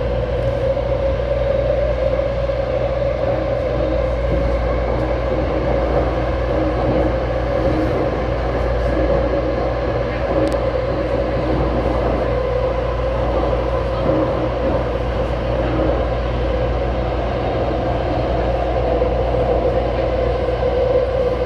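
Taipei Metro train running between stations: a steady rumble of wheels and track with a constant mid-pitched hum from the drive.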